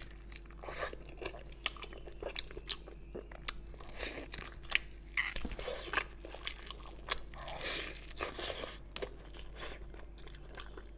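Close-miked eating sounds of a person biting and chewing braised pork knuckle, its skin and meat, with many sharp mouth clicks and a few longer noisy chewing stretches.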